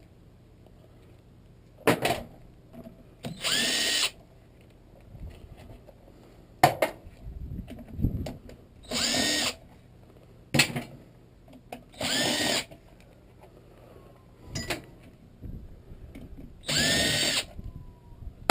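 A power drill-driver spinning up in four short bursts of about a second each, backing bolts out of an automatic transmission case during teardown. Sharp metal knocks fall between the bursts.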